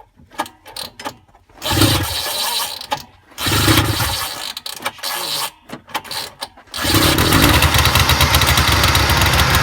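Cold Ski-Doo TNT 340's Rotax two-stroke engine being pull-started with the choke off and the throttle nearly wide open, to clear a flooded start. Two pulls bring short bursts of noise, then about seven seconds in it catches and runs fast and steadily.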